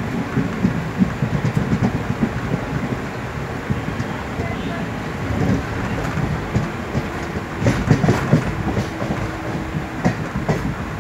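Indian Railways train running, heard from on board: a steady rumble of wheels on rails with irregular clattering over the rail joints, heaviest about eight seconds in.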